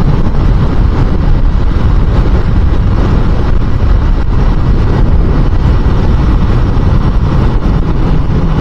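Steady wind rush on the microphone of a Suzuki Inazuma motorcycle being ridden at speed, with engine and road noise underneath.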